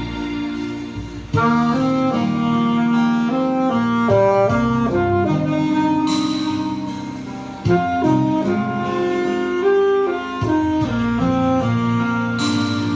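Instrumental music: a saxophone plays a flowing melody over a sustained backing accompaniment.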